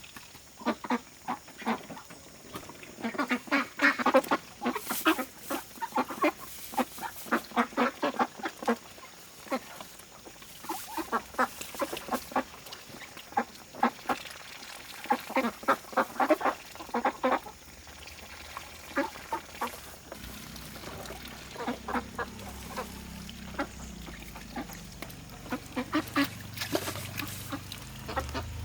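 Domestic ducks quacking repeatedly in runs of short calls. A low steady hum joins in during the second half.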